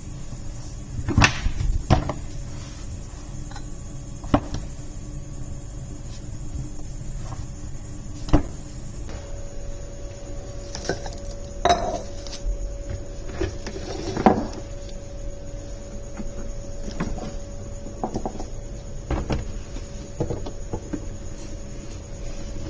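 Kitchen handling sounds: dishes, utensils and cupboard doors knocking and clinking now and then, the loudest about a second in and near the middle, over a faint steady hum.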